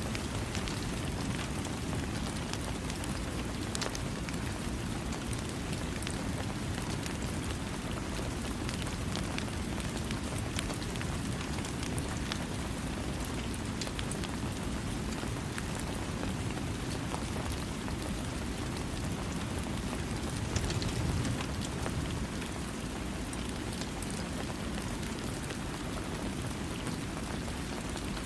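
Steady rain falling, with a dense wash of noise and individual drops ticking through it. It swells slightly for a moment about two-thirds of the way through.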